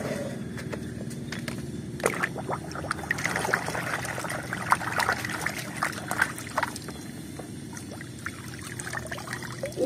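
Water sloshing and splashing in a plastic basin as a hand swishes a toy car back and forth through it, with irregular small splashes and drips.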